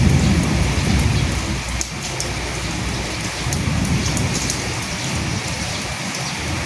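Steady heavy rain falling on a surface, with individual drops ticking through the hiss. A low rumble swells at the start and again about halfway through.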